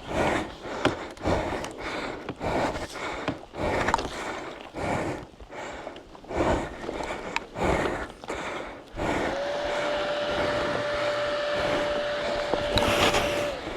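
A rider breathing hard, in heavy panting breaths about once a second, worn out from wrestling a dirt bike uphill. From about nine seconds in a steady drone with a single held tone takes over.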